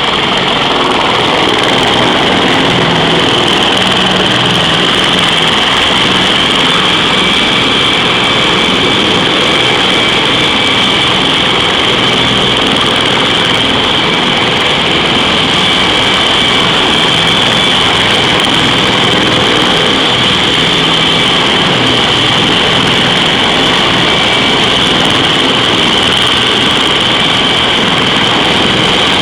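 CH-53E Super Stallion helicopter running steadily, its three turboshaft engines giving a high whine over the noise of the rotor.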